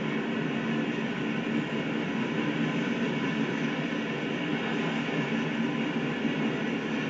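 A train passing close by: a steady rolling rumble of wheels on rail, even in level throughout.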